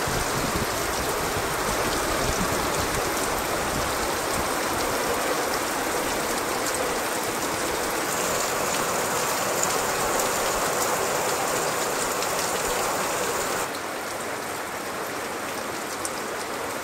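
Heavy rain pouring down steadily, a short hard shower; it turns noticeably quieter about fourteen seconds in.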